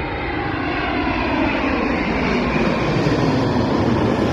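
Airliner engines passing close: a loud, steady roar with a set of whining tones that slowly fall in pitch.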